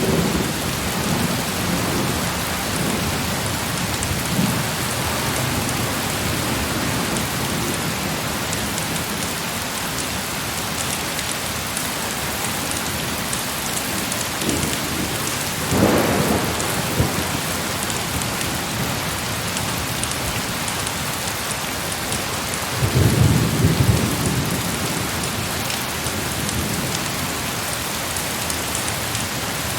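Heavy rain falling steadily, with two rolls of thunder: a short one about halfway through and a longer, low rumble about three-quarters of the way in.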